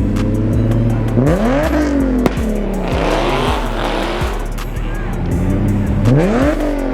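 Car engine revving up twice, rising in pitch about a second in and again near the end, with music playing underneath.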